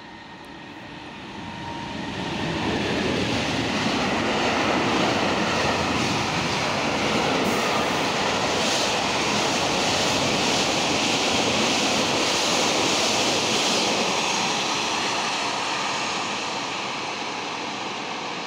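Freight train passing close below: an electric locomotive and a long string of covered silo tank wagons rolling by with a steady rumble and rush of wheels on rail. The noise builds over the first few seconds, holds, and fades slowly near the end as the wagons draw away.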